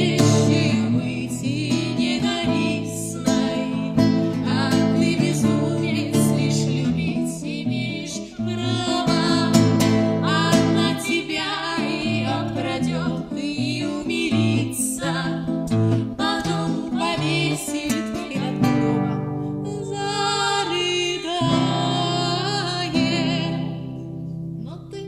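Live acoustic band music: strummed acoustic guitar under a wavering melody line, in a passage without sung words. It thins out and gets quieter near the end.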